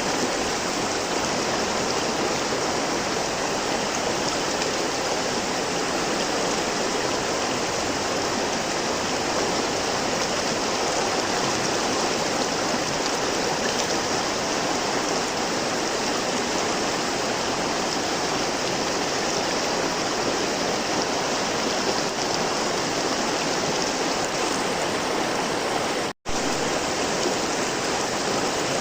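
River water flowing, a steady rushing noise. It cuts out completely for an instant near the end.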